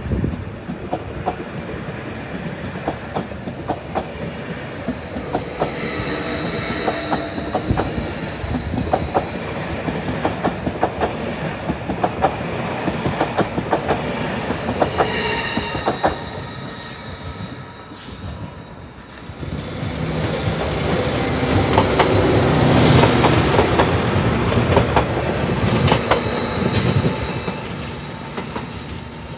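Electric multiple-unit passenger trains running past close by: a steady rumble with wheels clicking over rail joints, and a high-pitched wheel squeal twice, about six and fifteen seconds in. The sound dips briefly past the middle, then rises again as another train comes by.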